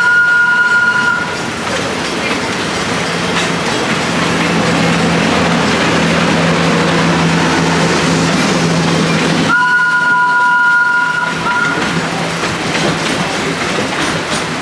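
A vehicle's two-tone horn sounds twice, each blast a second or two long, with a short extra toot after the second. A steady engine hum and rolling noise run underneath.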